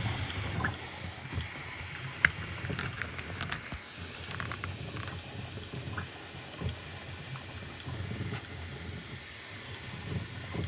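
A running 3D printer: a low, steady motor hum with a few brief whirring moves and scattered light clicks, the sharpest about two seconds in.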